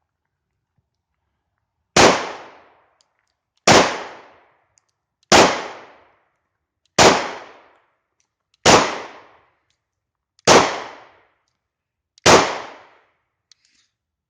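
A German P.08 Luger 9mm pistol firing seven single shots at a slow, steady pace, about one every 1.7 seconds, each crack trailing off in about a second.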